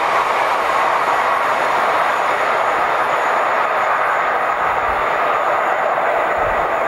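Freight wagons rolling fast on the rails: a steady, loud rushing of wheels on track as the tail of the train moves away, with a faint thin high whine from the rails joining in partway through.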